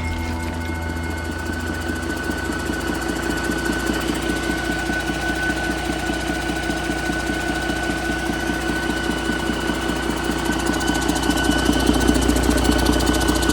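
2011 Detroit Diesel DD13 12.8-litre inline-six diesel engine idling steadily with an even rhythmic clatter and a thin high whine over it, getting a little louder about eleven seconds in.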